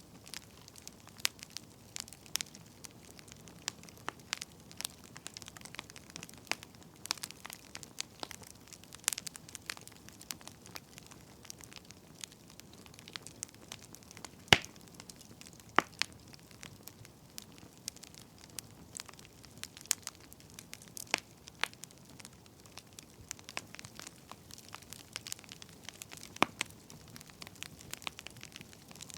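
Wood fire crackling: irregular sharp pops and snaps over a faint steady hiss, a few pops standing out louder.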